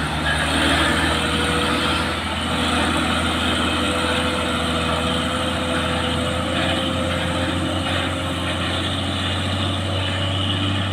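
Heavy truck diesel engine running steadily with a low, even hum.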